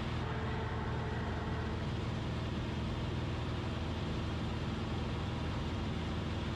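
Cessna 172RG's four-cylinder Lycoming engine and propeller running steadily in flight.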